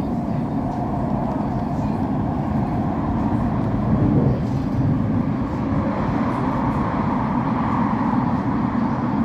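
Elizabeth line Class 345 electric train running between stations, heard from inside the carriage as a steady rumble of wheels on the track.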